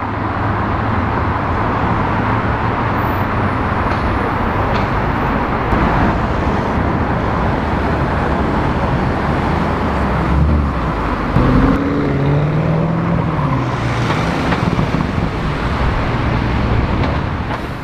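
Loud city-street traffic with car engines running. A little past halfway, an engine note rises and falls, a car revving as it pulls away, most likely the Lamborghini Urus's twin-turbo V8.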